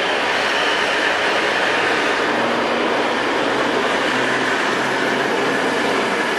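Electric freight train approaching on the main line: a steady rumble of wheels on rails, with a faint low hum joining partway through.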